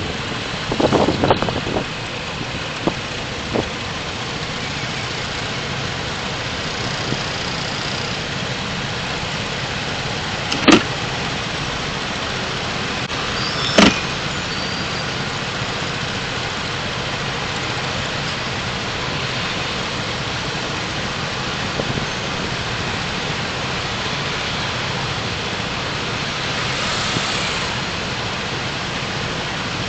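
A car driving through city streets, recorded by a dashcam: steady road and engine noise, with a cluster of knocks about a second in and two sharp clicks around ten and fourteen seconds in.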